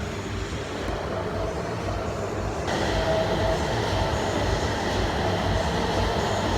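Ride noise from inside a moving public-transit vehicle: a steady low rumble with a faint whine, growing louder and brighter about two and a half seconds in.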